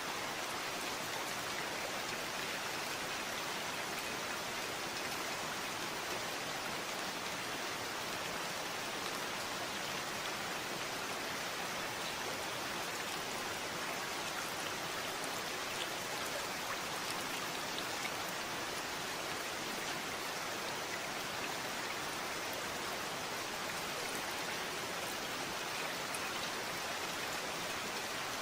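Steady rain falling, an even hiss of many drops with faint scattered individual drop ticks, unchanging throughout.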